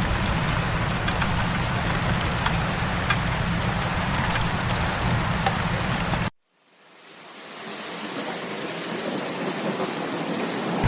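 Steady heavy rain with scattered drop ticks. About six seconds in it cuts out abruptly to silence for half a second, then fades gradually back in.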